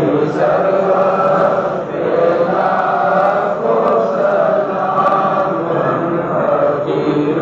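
A group of voices chanting together in a continuous devotional chant, the pitch rising and falling without a break.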